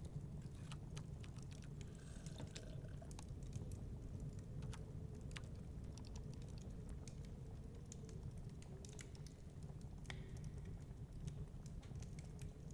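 Wood fire crackling, with irregular sharp pops and snaps over a low steady rumble of storm wind.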